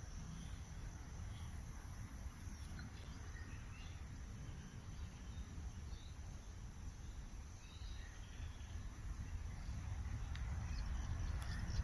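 Outdoor ambience with a faint steady high insect buzz, scattered short, faint bird chirps and a continuous low rumble underneath.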